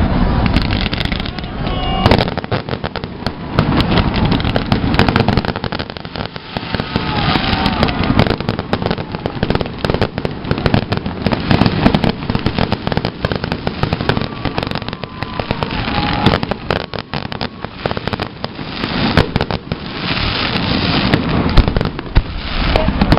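Fireworks salute of aerial shells bursting in dense, overlapping bangs and crackles over a continuous low rumble, with voices of onlookers underneath.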